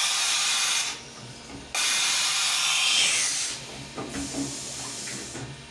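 Two bursts of compressed air hissing, each lasting under two seconds and starting and stopping sharply, with a short gap between them; then quieter shop noise with a few light clicks.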